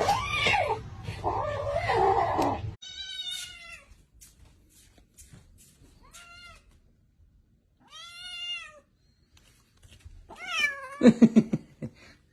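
Cat meowing: four drawn-out meows a couple of seconds apart, the last running into a quick string of short low pulses. Before them, a noisier stretch of cat sounds over background noise cuts off abruptly about three seconds in.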